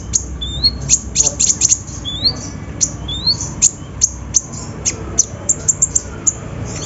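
Kolibri ninja sunbird singing: a fast run of sharp, high chirps with a few short rising whistles mixed in, over a low steady hum.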